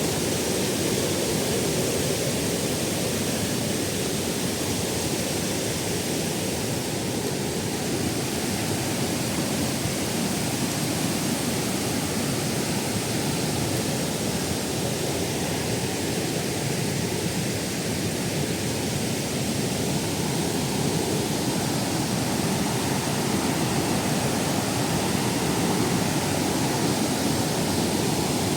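A waterfall pouring down its tiers: a steady, even rush of falling water that does not change.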